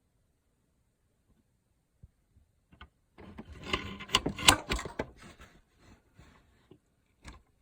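Handling noise: near silence, then about three seconds in a burst of rubbing and scraping with several sharp clicks lasting about two seconds, followed by a few separate clicks.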